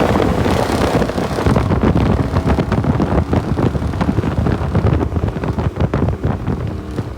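A 2012 Dodge Charger R/T's 5.7-litre Hemi V8 exhaust running hard at highway speed, heard with wind rushing through the open windows. It eases off near the end.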